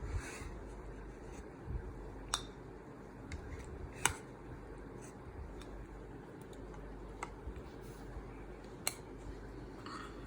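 A few sharp, faint clicks of a spoon against a bowl, four or five spread out, over a steady low hum.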